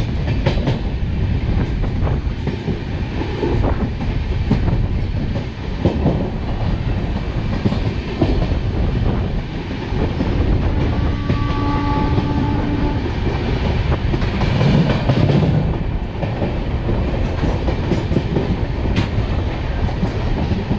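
Passenger train running on the track: a steady rumble with wheels clacking over rail joints. A horn-like tone sounds for about two seconds around the middle.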